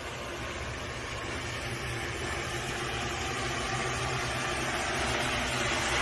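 Steady motor hum that grows slowly louder.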